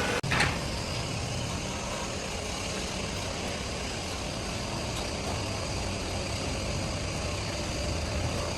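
Heavy machinery engine running steadily, with a brief cut and click just after the start.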